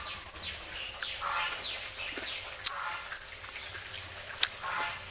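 Birds chirping now and then, short downward chirps, with two sharp clicks about a third and four-fifths of the way through.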